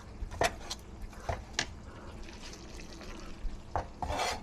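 Fried rice sizzling in a pan on the stove, with several sharp clicks of a cooking utensil against the pan and a fuller clatter near the end.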